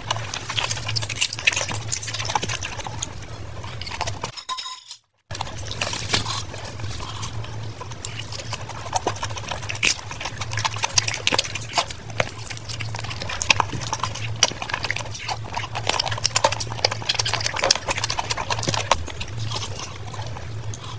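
Close-miked wet chewing and lip-smacking of curry, rice and puri, a dense run of quick sticky clicks and snaps. The sound drops out completely for under a second about four and a half seconds in.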